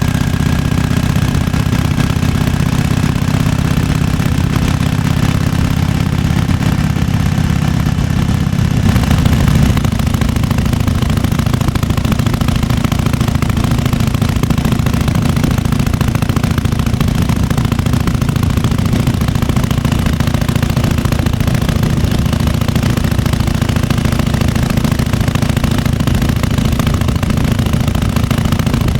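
1998 Harley-Davidson Fat Boy's air-cooled Evolution V-twin idling with its uneven potato-potato beat. About nine seconds in the sound shifts and briefly gets a little louder, then the engine settles back into a steady idle.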